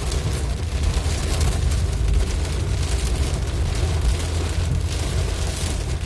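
Heavy rain hissing steadily while driving through a downpour, over a constant deep rumble of road and wind noise.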